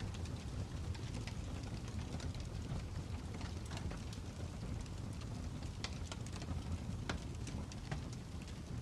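Crackling fire: a steady low rumble of flames with irregular sharp pops and snaps scattered throughout.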